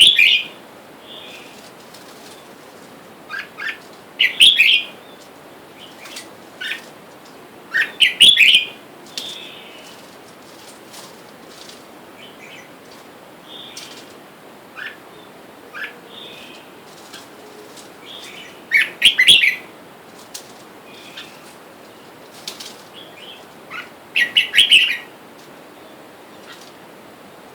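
Red-whiskered bulbuls calling in short bursts of bright, chirpy notes every few seconds, with fainter answering calls between the loud bursts.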